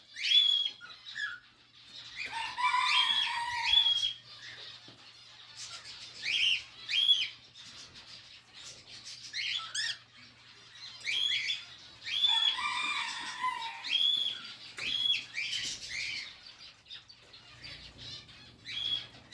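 Aviary birds calling: short, high whistled notes, each dropping in pitch, repeated in bursts. Twice a lower, drawn-out falling call sounds beneath them.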